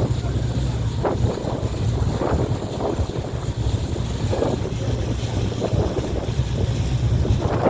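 Motorboat under way: the engine's steady low drone, with water splashing against the hull in irregular surges about once a second and wind buffeting the microphone.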